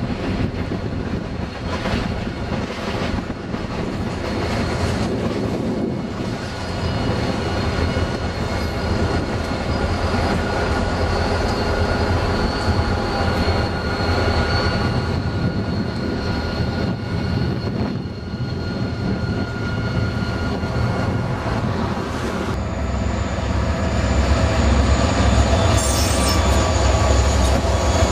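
Freight train rolling by, cars clattering over the rails with steady high wheel squeal. About three-quarters of the way through it grows louder with a deeper rumble.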